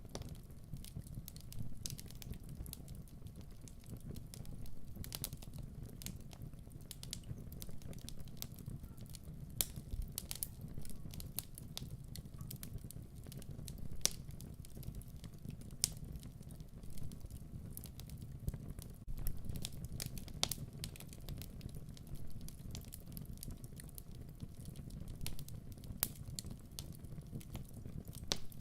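Wood fire burning in a fireplace: irregular sharp crackles and pops over a steady low noise of the flames.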